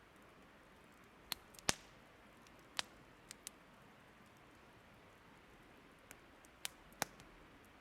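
Burning wood crackling: sharp pops at irregular intervals, about eight of them, with the loudest about a second and a half in, over a quiet steady hiss.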